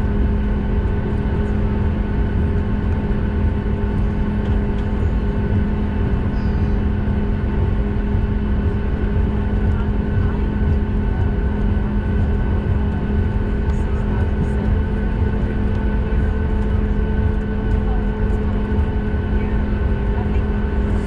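Steady cabin noise of a Boeing 737 on the ground: a constant low rumble with a steady hum and whine from the jet engines and air systems, with no change in pitch or level.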